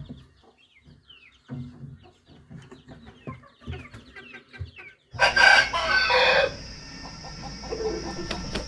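Chickens clucking with short falling peeps, then, about five seconds in, a loud aseel rooster crow lasting about a second and a half.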